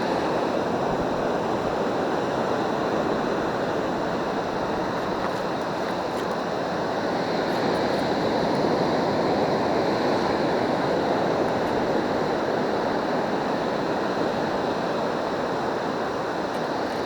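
Steady rush of surf washing on the beach, swelling slightly about halfway through.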